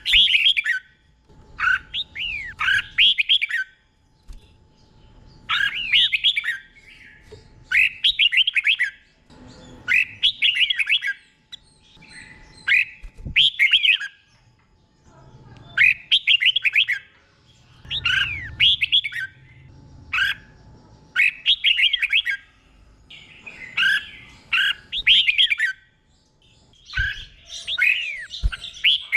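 Red-whiskered bulbul singing slow, clear 'doubled' song: short bubbling whistled phrases about every two seconds, each set apart by a short pause.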